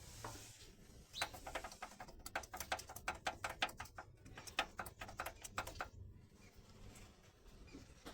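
Mitsubishi Colt's 4M40 four-cylinder diesel engine knocking: a quick run of sharp knocks, about five or six a second, starting about a second in and stopping near six seconds. The owner takes the knock for piston slap.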